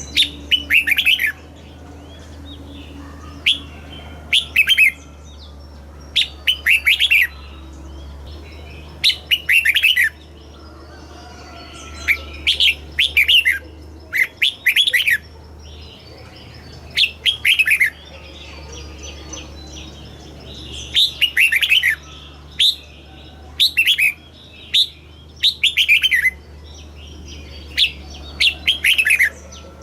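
Red-whiskered bulbul singing: short, bright phrases of quick falling notes, repeated every second or two, over a faint steady low hum.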